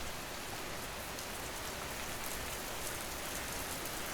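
Steady rain falling, an even hiss with faint pattering drops.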